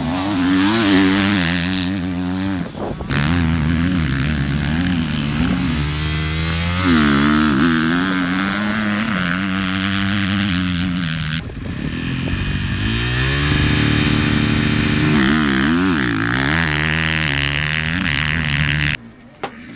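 Motocross bike engine revving up and down as the bike is ridden, the pitch rising and falling again and again. The sound changes abruptly about 3 and 11 seconds in, and drops away suddenly near the end.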